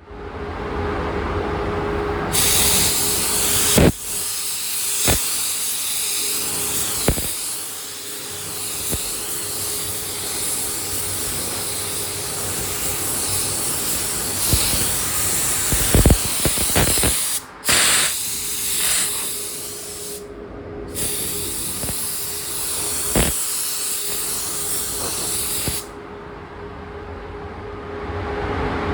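Paint being sprayed: a long, steady hiss that stops briefly twice and cuts off a few seconds before the end, over a faint steady hum. A few sharp clicks and knocks sound along the way.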